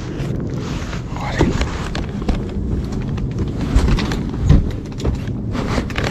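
Wind rumbling on the microphone, with several irregular knocks and thumps, the loudest about four and a half seconds in.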